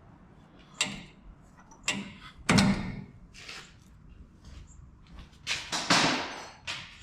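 Hand tools and metal parts clanking and scraping during suspension work: a string of separate knocks, the loudest about two and a half seconds in, then a longer rattling scrape around six seconds in.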